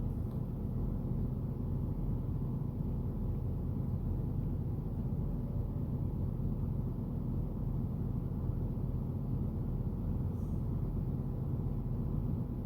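Idling semi-truck engine heard inside the cab: a steady low hum.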